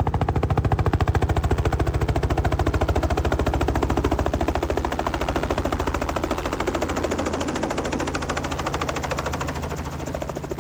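Helicopter rotor chopping with a fast, even beat over a low engine drone, slowly fading.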